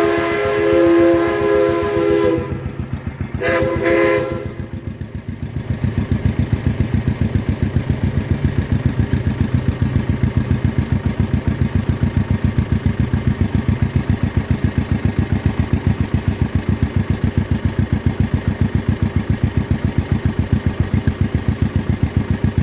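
A deep, chord-like whistle or horn sounds twice in the first few seconds: one long blast, then a short one. Under it and after it, a John Deere 40's two-cylinder engine runs steadily with an even, rapid putt-putt.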